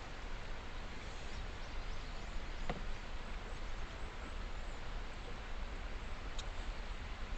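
Wood campfire crackling, with a couple of sharp pops a few seconds apart over a steady hiss.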